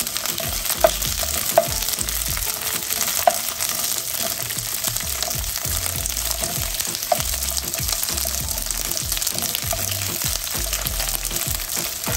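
Asparagus spears sizzling steadily in hot oil in a nonstick frying pan. A wooden spatula gives a few light taps against the pan in the first few seconds and once more about seven seconds in.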